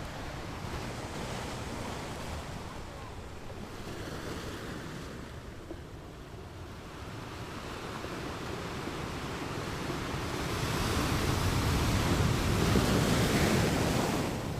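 Rushing wind buffeting the microphone over the wash of sea water, swelling louder about two-thirds of the way through.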